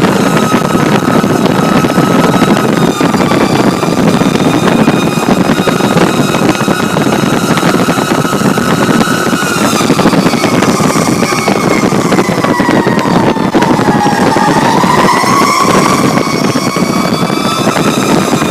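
Fire truck siren heard from inside the cab of a responding Pierce Arrow XT ladder truck, over loud diesel engine and road noise. The siren holds a steady pitch, then winds down lower about two-thirds through and climbs back up.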